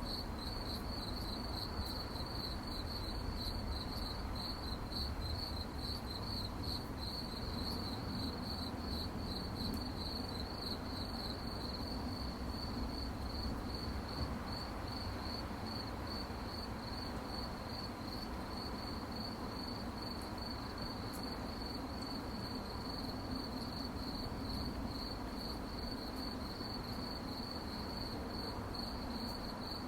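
Crickets chirping at night, a steady high-pitched pulsing chorus, over a faint low rumble.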